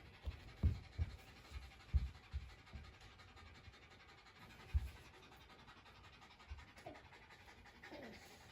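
Shiba Inu dog panting, quick soft breaths that come a few times a second at first and then thin out.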